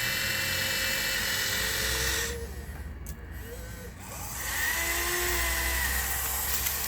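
Electric motors and gearboxes of a radio-controlled construction model whining at work, their pitch shifting with load. They stop for about two seconds in the middle, then start again.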